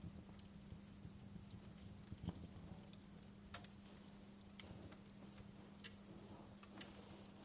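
Faint wood fire crackling in a fireplace: irregular small pops and snaps over a low rumble, with a steady low hum underneath.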